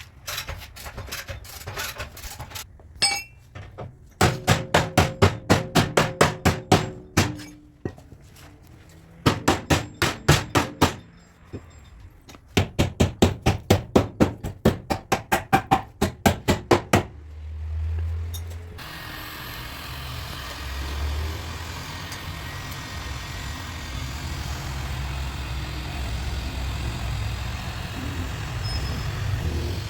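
Body hammer tapping rapidly on a car's sheet-metal panel, about six blows a second, in three runs with short pauses. From about two-thirds of the way in the tapping stops and a steady low hum with hiss takes over.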